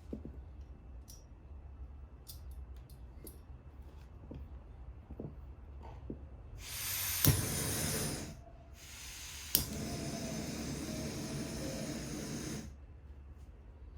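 Gas hissing from a small camping gas burner, each time with a sharp click like a piezo igniter: a short burst of about a second and a half, then a longer one of about four seconds that cuts off.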